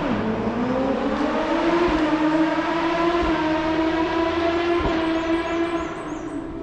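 Hillclimb race car engine under hard acceleration. There is a gear change right at the start, then the revs climb for about two seconds and hold high and steady. The sound fades near the end as the car pulls away.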